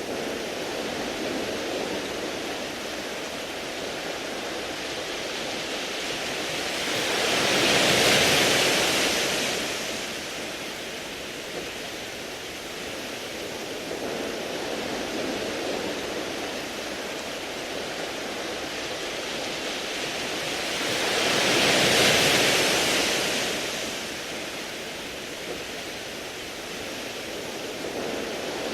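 Waves washing in on a beach of round pebbles: a steady hiss of surf, with two larger waves surging up and falling away about 14 seconds apart.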